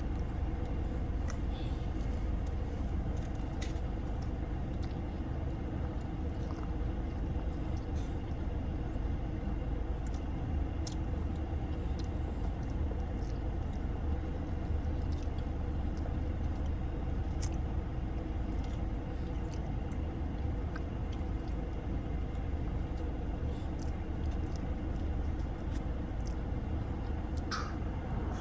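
Steady low rumble of a running car heard from inside the cabin, with a few faint clicks.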